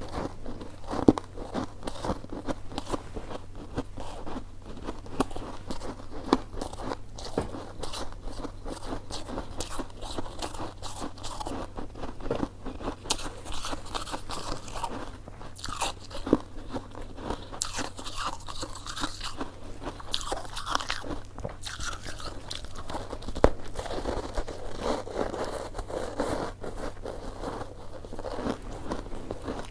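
Close-miked eating: a mouth biting and chewing coconut sticky rice cake, a dense run of rapid clicks and wet smacks, with two sharper clicks, one about a second in and one near the last quarter.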